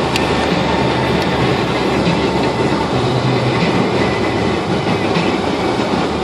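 Steady, loud rushing rumble with no breaks or distinct events.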